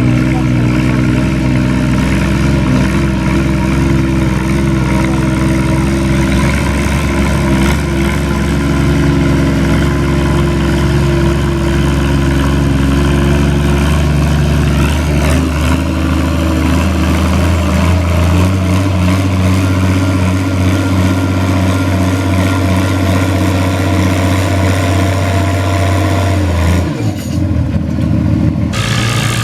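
Antique farm tractor engine running loud and steady under load. About two-thirds of the way in its note shifts, and near the end the deep engine note drops away suddenly.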